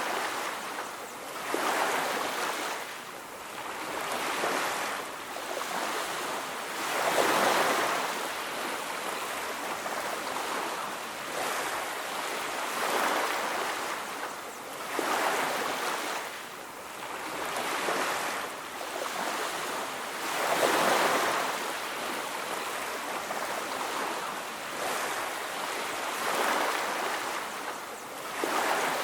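Ocean waves breaking and washing on a beach, a steady rush of surf that swells and falls back every few seconds.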